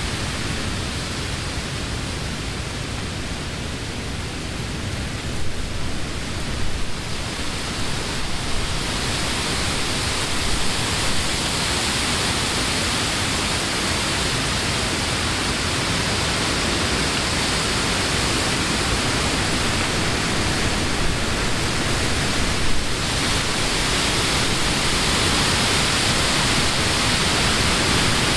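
Summer wind blowing through leafy trees: a steady rush of rustling leaves, softer for the first few seconds, then swelling as the gusts pick up.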